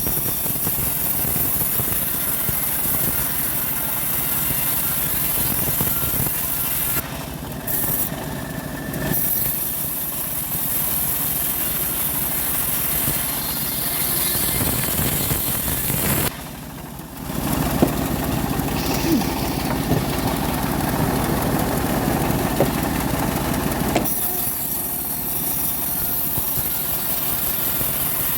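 Engine of a homemade bandsaw sawmill running steadily, with a brief dip in level partway through before it carries on.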